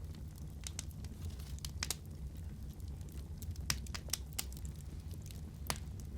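Wood fire crackling in a fireplace: a steady low rumble of the flames with irregular sharp pops and snaps, the loudest about two-thirds of the way through and again near the end.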